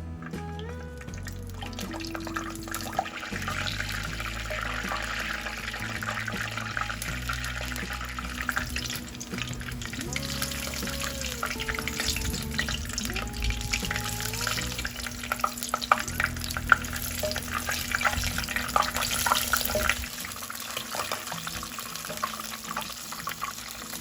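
Food sizzling in a hot pan, a dense crackle with many small pops, thinning out near the end, over background music.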